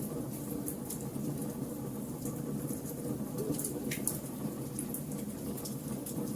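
Log fire burning in a fireplace: a steady low rumble of flames with scattered sharp crackles and pops from the burning wood, one louder pop about four seconds in.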